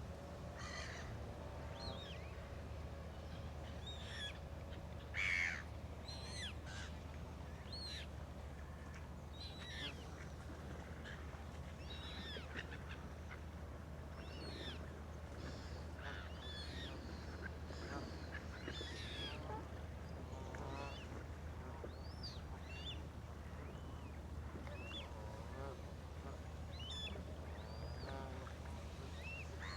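Ducks and geese on a lake calling again and again in short calls, one of them louder about five seconds in, over a steady low hum.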